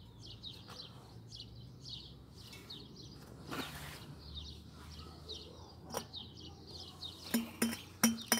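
Small birds chirping over and over in the background, short high notes that slide quickly. In the last second a few sharp taps and knocks, with a faint low ring, as a hand handles the glass jar.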